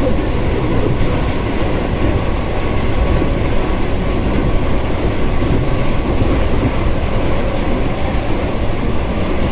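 Inside a moving Russian suburban electric train: the steady rumble and clatter of the carriage's wheels on the rails, with a faint steady high tone running under it.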